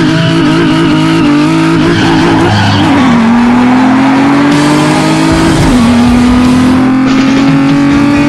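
Race car engine sound effect that starts abruptly. It revs with a wavering pitch for the first couple of seconds, then climbs steadily and drops back twice as it shifts up through the gears.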